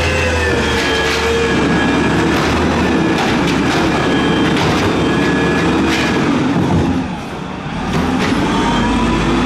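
Peterbilt 320 garbage truck's diesel engine revving hard, held at high revs, easing off briefly about seven seconds in, then climbing again.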